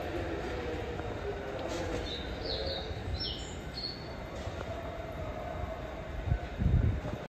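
Shinano Railway SR1 series electric train running away from the platform, with a steady rumble and short high squeals about two to four seconds in. Low thumps near the end are the loudest sound.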